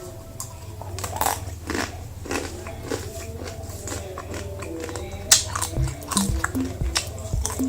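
Crunching and chewing of dry, uncooked instant noodles: a run of crisp bites and chews, the sharpest about five seconds in, over background music.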